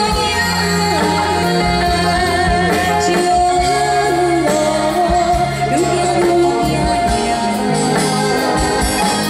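Live band playing a Mandarin pop song, with singing over a steady bass line and a long held, wavering melody note.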